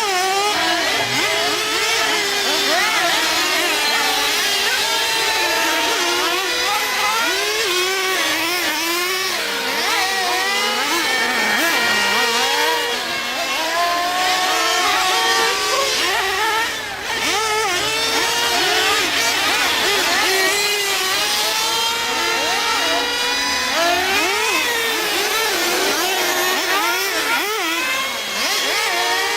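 Several nitro RC trucks and truggies running together, their small glow engines revving up and down over one another in a constant high-pitched buzz, with a short dip in level about two-thirds through.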